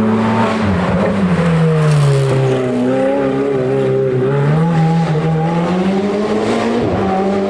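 Hill-climb race car engine running hard, its revs dropping over a couple of seconds about a second in, staying low briefly, then climbing back up as it pulls away again.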